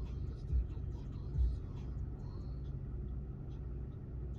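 A low steady rumble with a couple of soft thumps.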